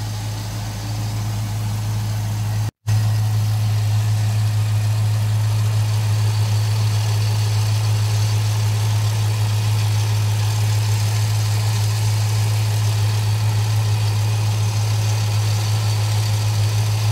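The 5.7-litre LS1 V8 of a VZ Commodore SS idling steadily, with a noisy air-conditioning compressor running on it. The noise is a sign of a worn compressor. The sound breaks off for a moment about three seconds in, then resumes slightly louder.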